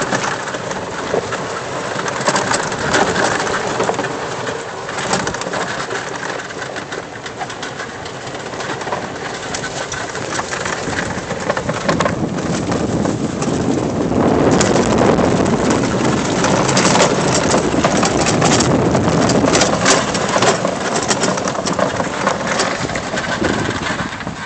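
EZGo golf cart rolling over a rough trail, with a dense rattle and clatter from the cart and loose things bouncing around in it; it gets louder a little past halfway through.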